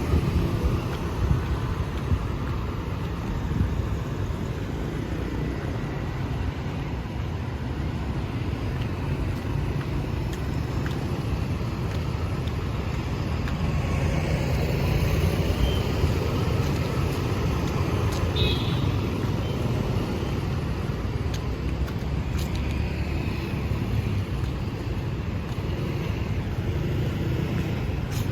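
Steady road traffic on a city street, a continuous wash of passing vehicles that is strongest in the low end.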